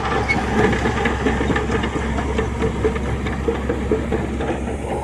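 Heavy diesel earthmoving machine running with a steady low engine hum, overlaid with rapid metallic clatter and hiss.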